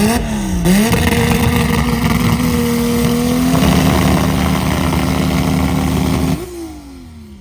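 A car engine revved in two quick blips, then held at high revs for about five seconds before the revs drop away and it falls back toward idle.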